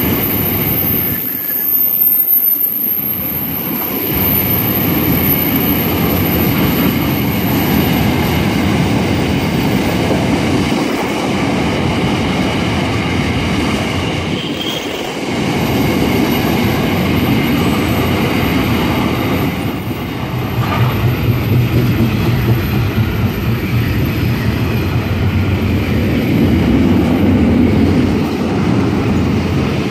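Freight train rolling past at close range: steady wheel-on-rail noise from the passing wagons, with a low steady hum joining about two-thirds of the way through.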